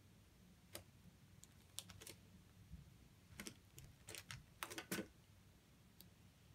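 Plastic LEGO pieces clicking and knocking together as they are handled and pulled apart: a scattering of sharp, light clicks, bunched together about two seconds in and again between three and a half and five seconds in.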